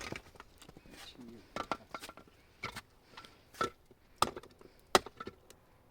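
A series of sharp knocks at uneven spacing, about nine of them, several with a short ringing tone after the strike, like blows of a tool in work.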